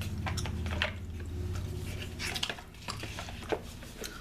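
Close-up bubble gum chewing: wet clicks and smacks in quick irregular succession over a steady low hum.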